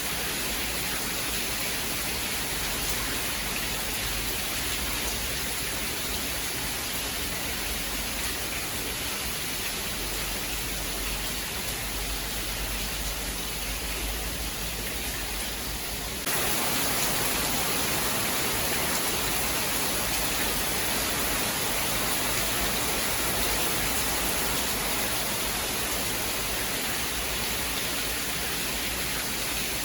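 Steady rain, an even hiss with no thunder. About halfway through it suddenly becomes a little louder and brighter, then carries on steady.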